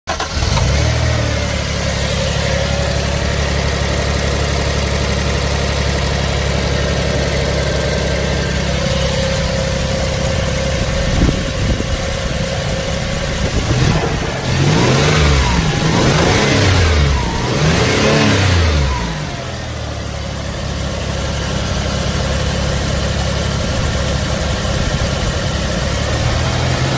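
Toyota 4Runner's 3.0-litre V6 (3VZ-E) petrol engine idling steadily. About halfway through it is blipped twice, the revs rising and falling each time, before it settles back to idle.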